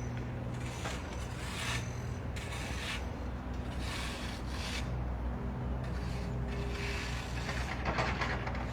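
Soft, rhythmic scraping and rustling, about one every second, from slow Ba Gua circle-walking steps, over a steady low hum of construction machinery.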